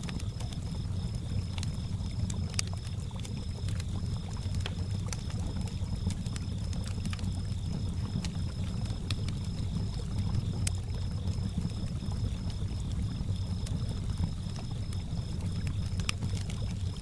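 Campfire crackling in scattered sharp pops over a steady low wash of lake water lapping, with crickets chirping in a continuous high pulsing trill.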